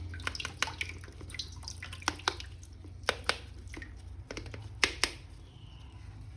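Water dripping and trickling, with irregular small sharp clicks and taps.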